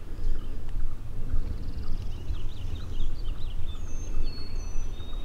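Low, uneven rumble of outdoor noise on the microphone, with small songbirds singing faintly over it: a fast trill, then several high, clear whistled notes near the end.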